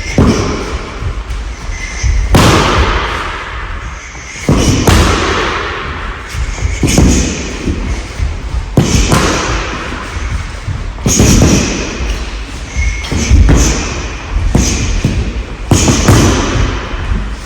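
Punches and kicks thudding into rolled-up striking targets, an irregular run of blows, often several in quick succession, each with a short echo.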